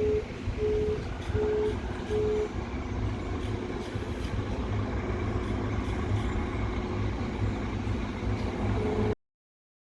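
A vehicle's reversing beeper sounding a steady single-pitch beep about twice a second over a low engine rumble; the beeps stop after a couple of seconds, one more comes near the end, and then the sound cuts out abruptly.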